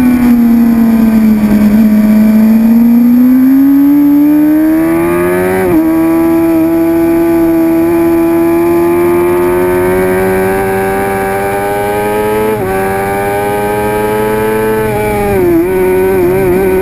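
2006 Suzuki GSX-R750's inline-four engine at high revs under track riding. Its pitch falls, then climbs steadily, with sharp breaks at gear changes about 6 s and 12.5 s in, and a quick dip and wobble near the end.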